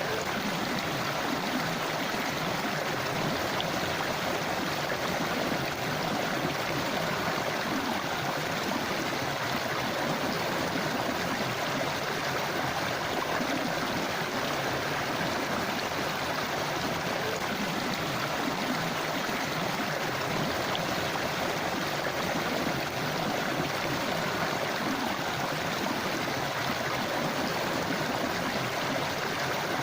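River water flowing over stones: a steady rushing and gurgling.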